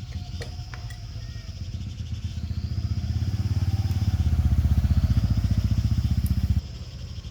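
A small engine running with a fast, even firing pulse; it is revved up, held high for a couple of seconds, then drops back abruptly near the end.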